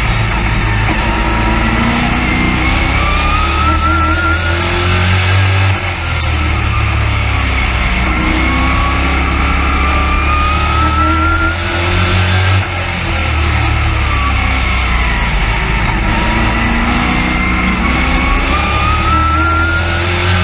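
Race truck engine heard from inside the cab, climbing in pitch under throttle and dropping off sharply, a cycle of about six or seven seconds as it accelerates and lifts on the oval.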